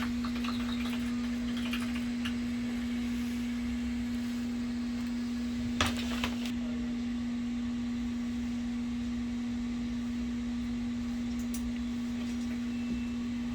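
A steady low hum held at one pitch, with two short clicks about six seconds in.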